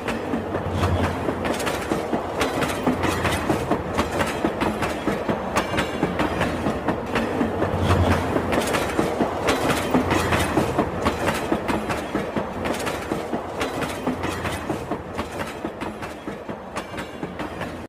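Battery-powered toy train running on its track, with a steady stream of rapid clicking from the wheels and track.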